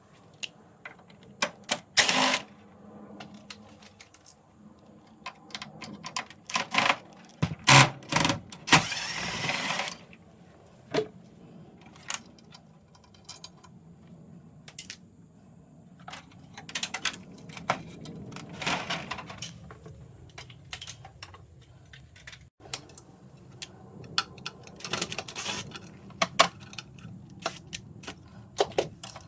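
Irregular clicks, knocks and clatter of air-conditioner parts and tools being handled during disassembly work. A short stretch of rushing noise comes about nine seconds in.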